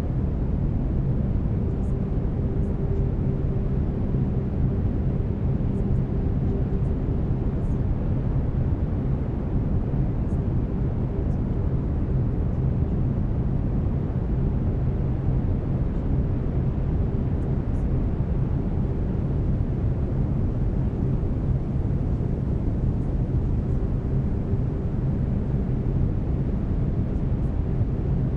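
Steady brown noise, a deep, even rumbling hiss, with low steady binaural-beat tones held underneath it.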